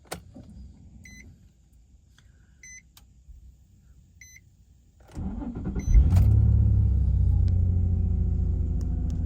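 Nissan Z's V6 cold start after sitting overnight: three short warning-chime beeps sound inside the car, then the starter cranks about five seconds in and the engine catches within a second. It settles into a steady, smooth idle.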